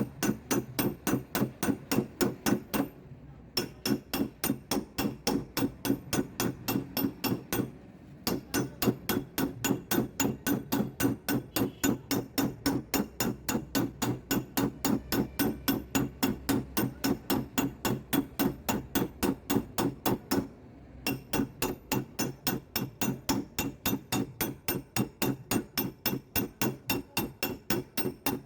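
Steady rapid hammer taps on a Suzuki Swift's sheet-steel door panel during dry (paintless) dent repair, about three strikes a second with a brief metallic ring after each. The tapping stops briefly about 3, 8 and 21 seconds in.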